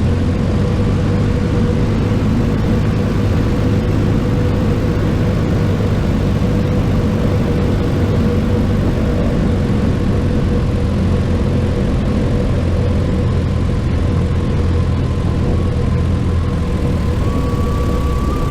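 Cessna 150's four-cylinder Continental O-200 engine and propeller running steadily in flight, heard from inside the cockpit. A thin, high, steady tone joins near the end.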